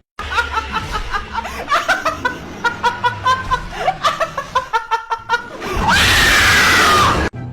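Laughter in quick repeated pulses for several seconds, then a loud scream about six seconds in that lasts just over a second and cuts off abruptly.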